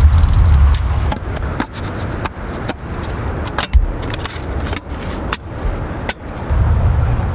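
Scattered raindrops tapping sharply and irregularly on tent fabric over a low rumble, which swells at the start and again near the end.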